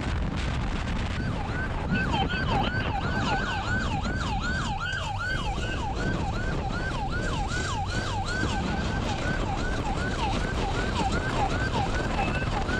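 Police car siren in a fast yelp, each cycle falling quickly in pitch and repeating four to five times a second, over steady road and engine noise from the pursuing cruiser.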